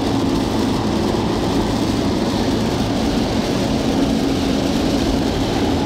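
Car engine running steadily with a low hum, under an even hiss of rain.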